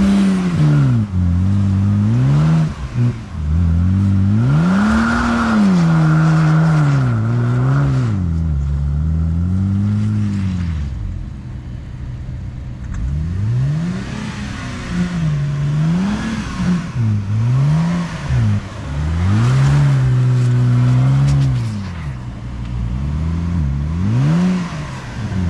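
BMW 128i's 3.0-litre inline-six revving hard and dropping back again and again, in repeated surges of rising and falling pitch, as the rear-wheel-drive car spins its wheels sliding in snow.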